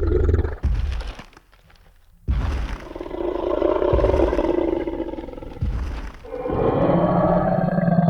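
Designed T. rex sound effect: heavy footstep thuds in the first second, then a long roar starting about two seconds in, followed near the end by a second, lower roar with a steady pitch.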